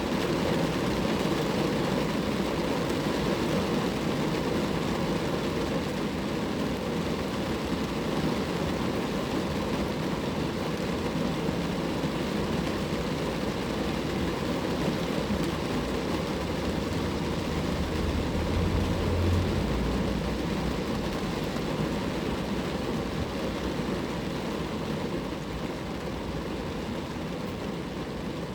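Steady rain falling on a car, an even rushing hiss with no breaks. A low hum swells briefly about two-thirds of the way through.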